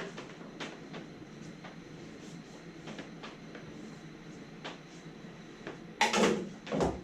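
Scattered light clicks and knocks of tools and parts being handled, over a low steady hum. A little after six seconds in there are two much louder clattering knocks.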